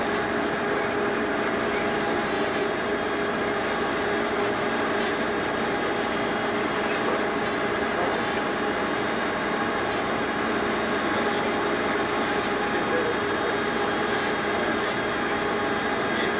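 A steady mechanical drone with several constant hum tones, unchanging throughout.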